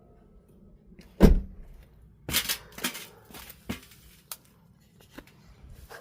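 A heavy thump about a second in, then a short spell of clattering and a few separate sharp clicks.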